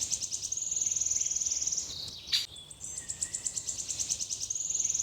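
High-pitched insect trill of rapid, even pulses, in two long bursts with a short break and a click at about two seconds in.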